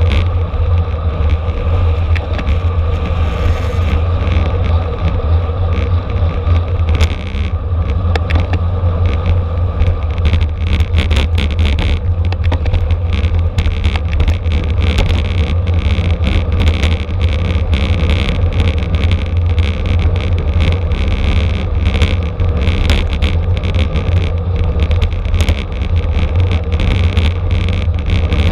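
Wind rushing over a bicycle-mounted camera's microphone while riding at speed: a steady loud low rumble, with rapid rattling clicks from the bike and road starting about seven seconds in.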